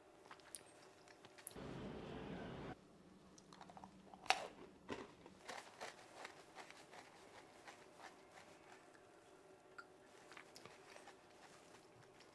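Faint crunching as someone chews a crisp tarallo: one sharp crunch about four seconds in, then a run of smaller crunches. There is also a brief rush of noise about two seconds in.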